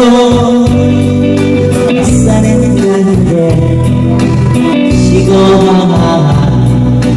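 A singer with a live band performing a Korean pop song: vocals over guitar and a bass line whose low notes change about once a second.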